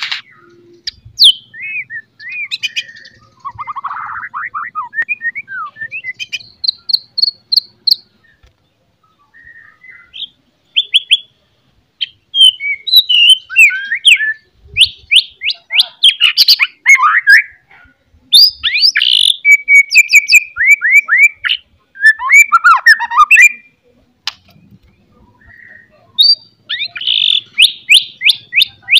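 A songbird singing loudly in rapid, varied chirps and trills, in bursts broken by short pauses about eight seconds in and again near the end.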